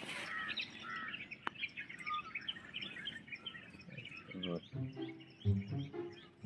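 Small birds chirping in short, scattered calls, with one sharp click about a second and a half in. From about four seconds in, low, steady pitched tones come in and are the loudest sound.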